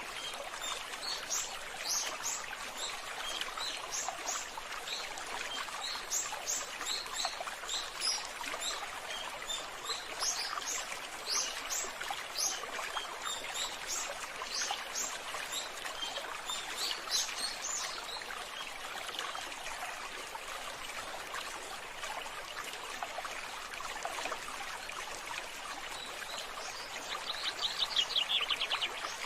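Water trickling and running steadily, with small birds giving many short, high chirps over it during the first half or so. Near the end comes a fast, rattling trill, the loudest sound.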